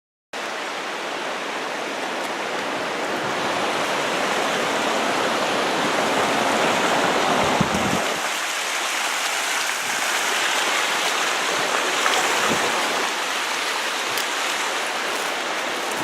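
Rushing river water, a steady loud hiss that cuts in suddenly at the start; its deeper part drops away about halfway through.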